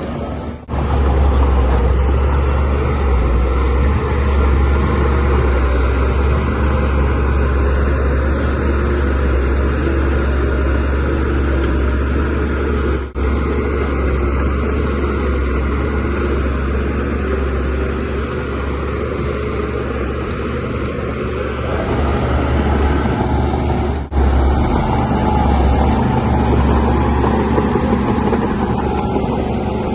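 Shantui DH17C3Pro bulldozer's diesel engine running steadily under load with a strong low drone, briefly cutting out three times.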